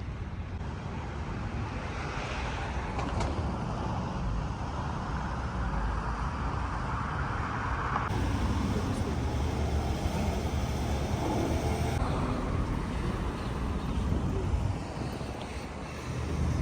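Steady low rumble and noise of a moving vehicle, with abrupt changes in the sound about eight and twelve seconds in where one recording gives way to another.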